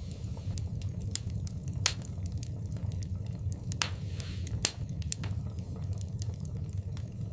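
Wood fire in a fireplace crackling, with irregular sharp snaps and pops over a steady low rumble of the flames. Two louder pops come about two seconds in and just under five seconds in, with a brief hiss between them.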